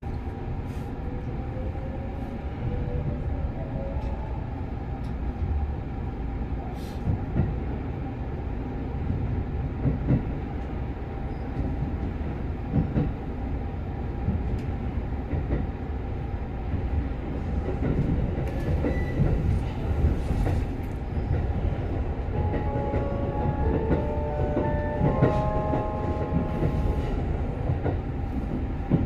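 Electric limited-express train pulling away, heard from inside the car: a motor whine rises in pitch early on over a steady rumble, with scattered clicks from the rails. Near the end the in-car chime plays a short melody of stepped tones, the signal that the on-board announcement is about to begin.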